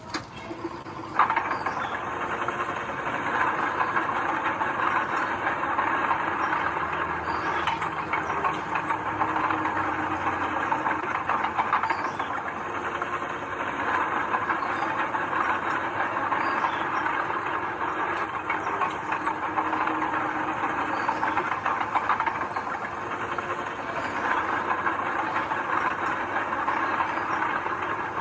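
Mini crawler bulldozer running: a steady engine with a continuous metallic rattle and clatter that cuts in abruptly about a second in.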